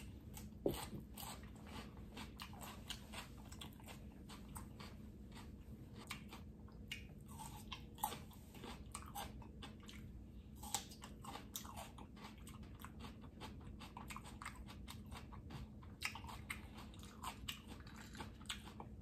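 Close-miked chewing of raw bell pepper strips: an irregular run of crisp crunches with the mouth working steadily.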